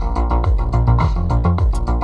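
Music with a strong bass line, played through 8-ohm speakers on a three-way crossover as a sound test. The high cymbal-like ticks mostly drop out and return near the end, while the bass carries on.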